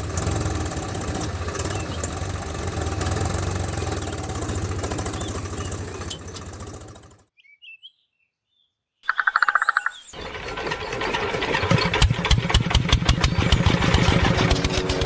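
Small engine running with a rapid even beat, cut off abruptly about seven seconds in. After about two seconds of silence it comes back with a short burst and runs on, louder and with a faster, sharper beat.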